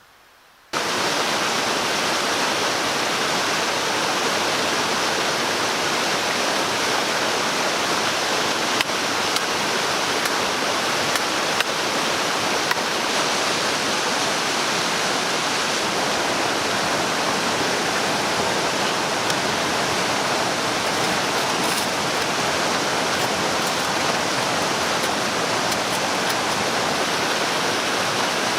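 Steady rushing water of a stream or waterfall, cutting in abruptly under a second in, with a few faint clicks.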